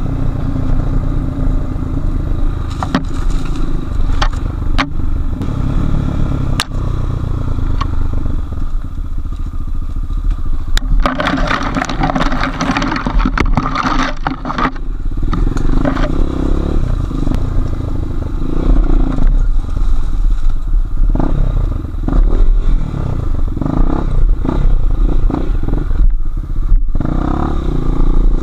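Enduro dirt bike engine revving and easing off again and again as it is ridden off-road, with scattered sharp clattering knocks. About eleven seconds in, a harsher, hissing stretch of noise lasts several seconds.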